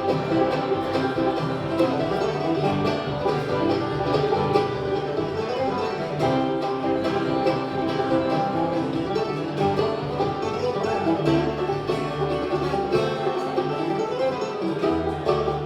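Bluegrass band playing an instrumental passage, with banjo and guitar picking in a steady, dense stream of notes.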